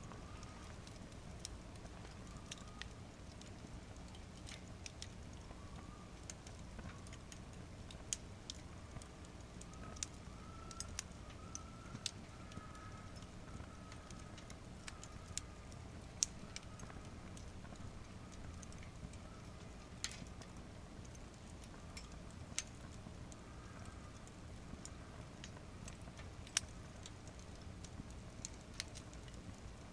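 Wood fire in a fire pit crackling, with irregular sharp pops and snaps over a low, steady rumble of burning.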